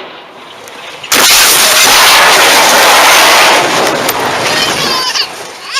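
A sudden, very loud, harsh noise starts about a second in, holds for over two seconds, then fades, with a wavering high voice near the end.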